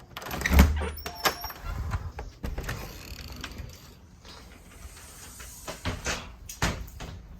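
A door opened with a low thump and a short squeak, followed by scattered knocks and camera-handling noise.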